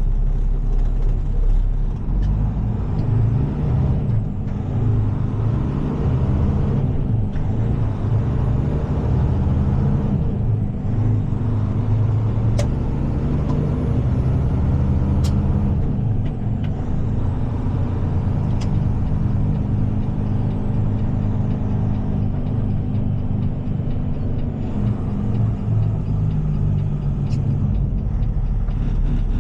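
Heavy diesel tow truck driving with a boom truck in tow: a deep, steady engine drone whose note climbs and drops back several times, with a few sharp clicks.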